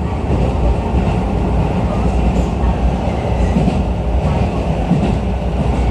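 Running noise inside a Keisei New 3000 series electric commuter train at speed: a steady rumble of wheels on rail, with faint scattered clicks.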